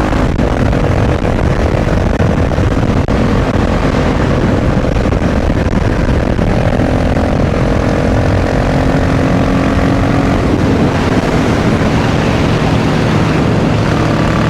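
Supermoto motorcycle engine running while being ridden at a fairly steady speed, its pitch drifting slightly up and down, under a steady rush of wind noise.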